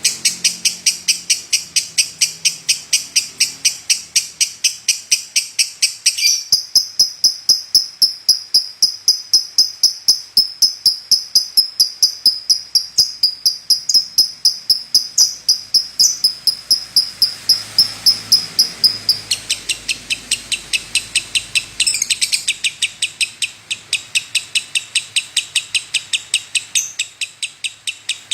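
Lovebird chattering in a long, unbroken song of rapid high chirps, several a second. From about six seconds in to about nineteen seconds in a steadier high rippling trill runs over the chirps, then the plain chirping resumes.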